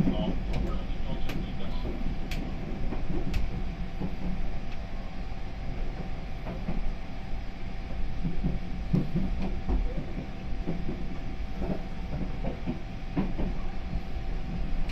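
285 series sleeper train heard from inside the carriage, running on its approach into a terminus: a steady low rumble of wheels on rail with a faint steady hum and a few sharp clicks over rail joints in the first few seconds.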